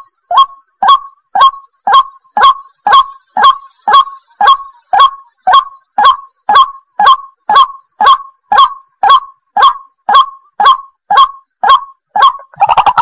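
White-breasted waterhen calling: a steady run of short, sharp, repeated notes, about two a second, each dropping slightly in pitch. Near the end the notes come faster and overlap.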